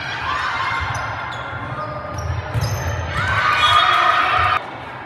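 Gym game sounds in a large echoing hall: a ball thumping on the court and sneakers squeaking on the floor, with some voices. The loud stretch cuts off suddenly near the end.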